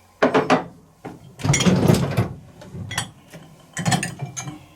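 Crockery being handled in a dishwasher rack: a few short knocks, a longer clatter about a second in, and more knocks near the end.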